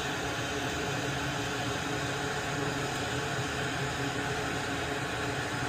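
Steady, even hiss of air from a running fan or blower, with no clicks or other events.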